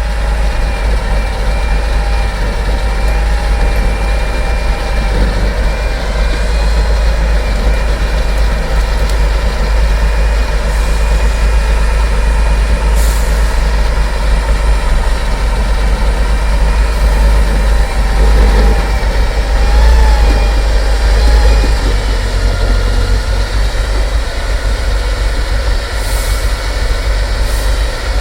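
Heavy off-road trial truck with its diesel engine running under load, a deep steady rumble with a droning tone above it. A few short hisses of air come about halfway through and near the end.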